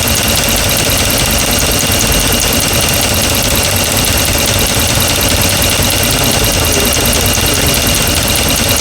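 2009 Dodge Ram 1500's 5.7 Hemi V8 idling with a steady, rapid valve-train tick. The owner traces the tick to the number one intake lifter on the driver's side and takes it for a faulty lifter.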